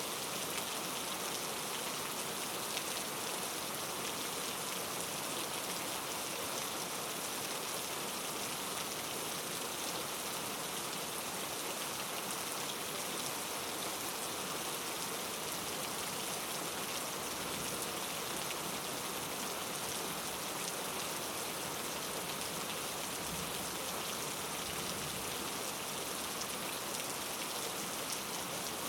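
Steady rain falling, an even patter of drops on a surface with no thunder.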